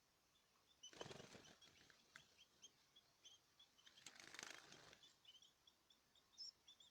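Faint small cage birds chirping with short, repeated high calls, and two brief flurries of wing flapping, about a second in and again around four seconds in.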